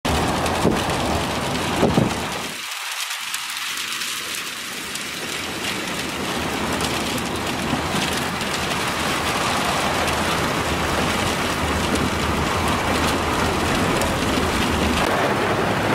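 Steady hiss of rain during a severe thunderstorm, heard from a moving vehicle, with a low road rumble beneath that drops out briefly about two and a half seconds in.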